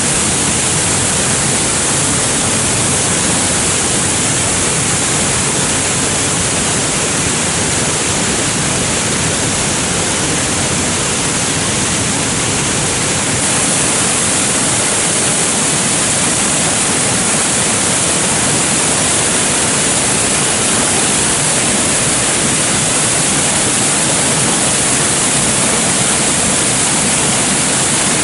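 Mountain stream water rushing loudly and steadily, a continuous even rush of falling water that grows a little louder about halfway through.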